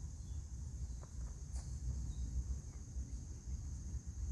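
Steady, high-pitched chorus of insects such as crickets, over a low rumble.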